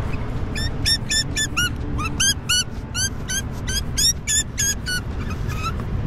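Grey butcherbird giving a rapid run of short, squeaky calls, about three a second, each with a quick rise and fall in pitch, over wind rumble on the microphone.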